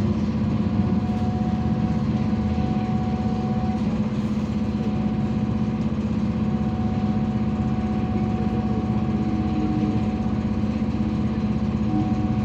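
Cabin sound of a BKM-32102 trolleybus: a steady electric hum with a few held whining tones from its electric drive and equipment, over even running noise.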